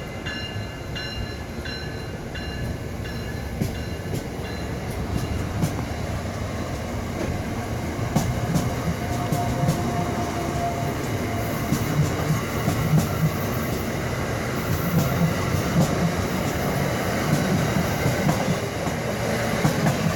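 Amtrak Regional passenger train pulling out of the station, its cars rolling past with a steady rumble and wheel clicks over the rail joints that come faster from about halfway through as it picks up speed.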